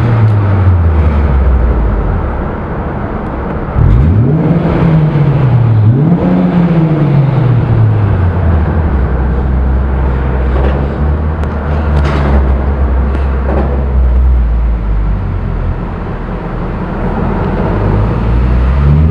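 Honda S2000's four-cylinder engine through a Milltek dual exhaust, heard inside the closed cabin. The pitch falls over the first few seconds, then climbs sharply about four seconds in and rises and falls twice. It then settles into a steady low cruising drone and begins climbing again near the end.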